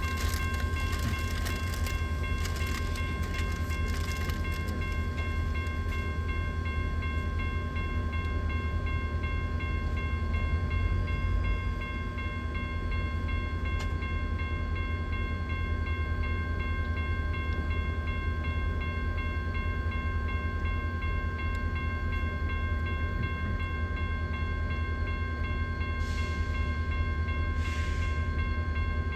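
Train running past with a steady low rumble and a high steady whine, with a run of sharp rail clicks over the first few seconds and two short hissing bursts near the end.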